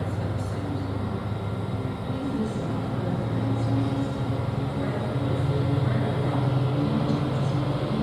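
Diesel freight locomotive engine running with a steady low hum that slowly grows louder.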